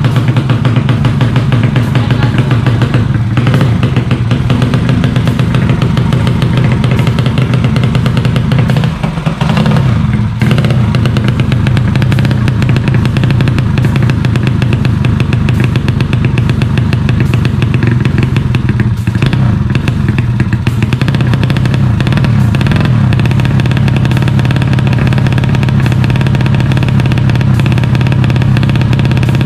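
130cc motorcycle engine running steadily at a constant speed, with two brief dips about 9 and 10 seconds in.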